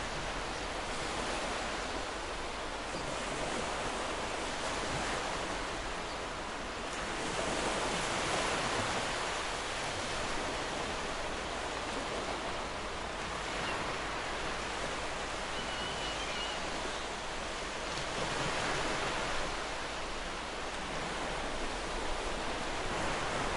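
Ocean surf washing onto a beach: a continuous rush of waves that swells twice as larger waves break.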